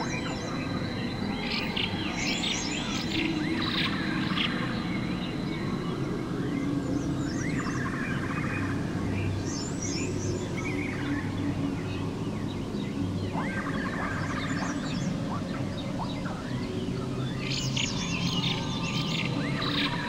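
Birds chirping and twittering in short bursts of quick high notes that come back every few seconds, over a steady low background bed.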